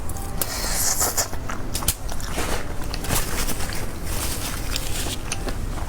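Close-miked biting and chewing of fried skewered food, with crisp crackles and small clicks throughout.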